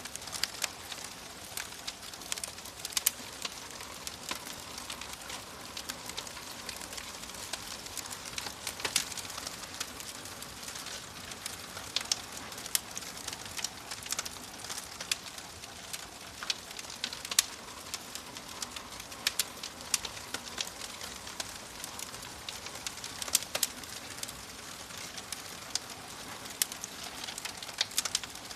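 Wood fire in a fireplace crackling, with frequent sharp irregular pops and snaps over a steady hiss.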